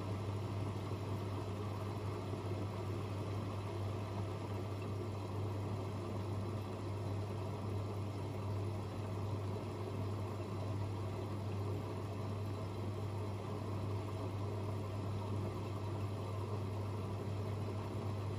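AEG Öko-Lavamat 88840 and Miele Novotronic W 985 WPS washing machines running mid-cycle: a steady low hum over an even mechanical noise.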